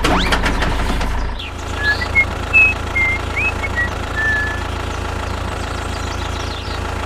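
An engine idling with a steady, even hum, a little louder in the first second and a half. A string of short high chirps sounds over it from about two to four and a half seconds in.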